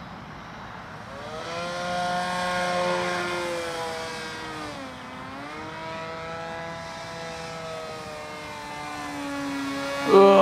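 Electric motor and propeller of an RC model plane flying past, a steady buzzing tone. Its pitch drops briefly around the middle as it passes, and it gets suddenly louder just before the end.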